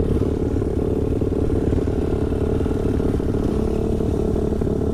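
Dirt bike engine running steadily at an even pitch, without revving.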